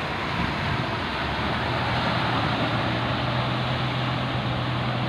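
Boat engine running steadily with a low, even hum, under a constant rush of wind and sea noise.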